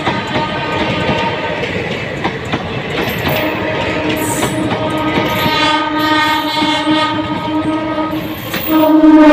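Passing trains with wheels clattering over rail joints, and a train horn sounding one long steady blast from about three seconds in, then a louder blast near the end.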